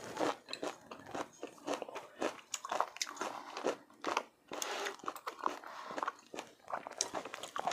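A person chewing food with the mouth close to the microphone: irregular wet smacking and clicking mouth sounds.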